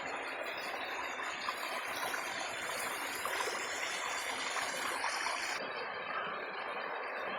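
Steady rushing of a flowing river. A little past two-thirds of the way through, the highest hiss drops out abruptly.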